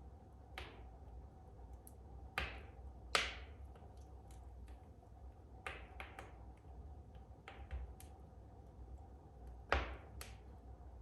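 Wood fire burning in a fireplace, crackling with irregular sharp pops, the loudest a little after two seconds, about three seconds in, and near the end.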